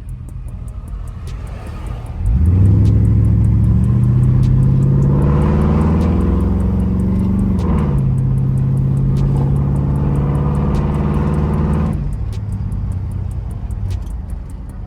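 Car engine revved up from idle about two seconds in, its pitch climbing slowly while held, then easing off to a steady higher speed and dropping back toward idle near the end.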